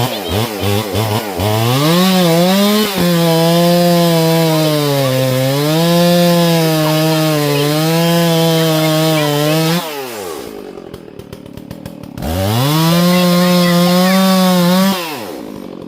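Partner Farmer two-stroke chainsaw blipping its throttle, then held at full revs while cutting brush, its pitch dipping as the chain pulls through the wood. It drops to idle about ten seconds in, revs up again for a few seconds and falls back to idle near the end.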